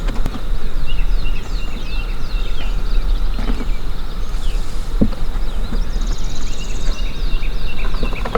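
Small birds chirping and trilling, with a thin steady high buzz and a quick rattling trill about six seconds in. Under them runs a steady low rumble, with a few soft knocks.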